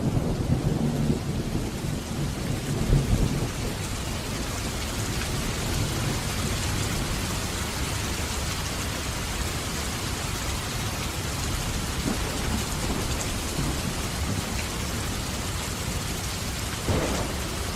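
Heavy rain falling steadily with a rolling rumble of thunder in the first few seconds that dies away, and another short low rumble near the end.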